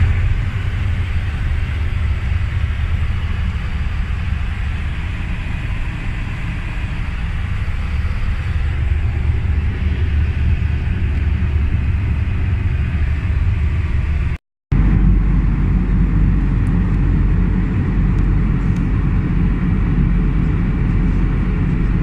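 Steady rumble of engine and airflow noise inside an Airbus A320 cabin in flight. It breaks off for a moment about two-thirds through and resumes with a heavier low rumble.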